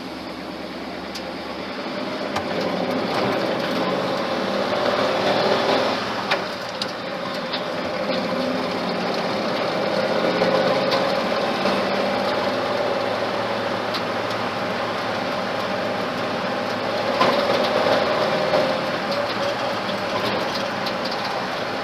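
Truck's newly built Ford flathead engine running as the truck drives. The engine grows louder over the first few seconds, dips briefly about six seconds in, then runs on steadily.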